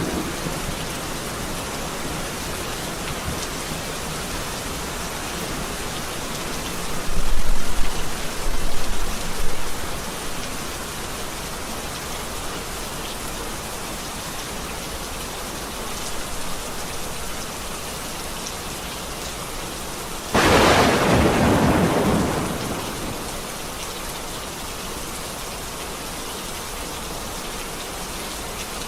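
Steady rain falling during a thunderstorm. Thunder rumbles about a quarter of the way in, and a sharp thunderclap comes about two-thirds of the way through and dies away over a couple of seconds.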